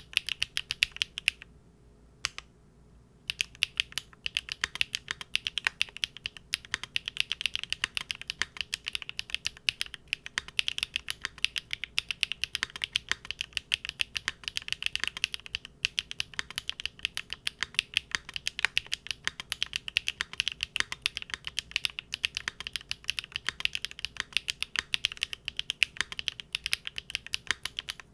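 Big Whale custom mechanical keyboard with GEON Raw Zero switches on a polycarbonate plate being typed on: a fast, steady stream of key clacks, with a short pause about two seconds in.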